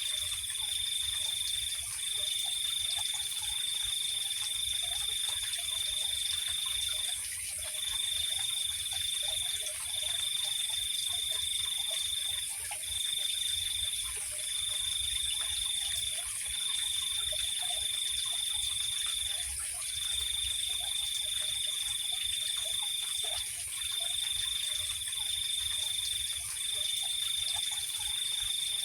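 Night chorus of trilling crickets: one high, continuous trill broken into phrases of a second to several seconds by short pauses, over a steady, higher insect hiss, with faint scattered low calls beneath.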